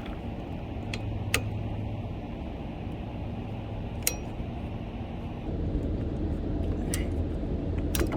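Windshield wiper blade and its clamp clicking and clinking, a few separate sharp clicks, as the old blade is worked off the wiper arm, over a steady low rumble.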